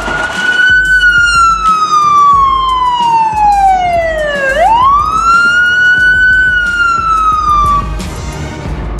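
Police car siren wailing: its pitch falls slowly, sweeps quickly back up about four and a half seconds in, holds high, then stops near the end.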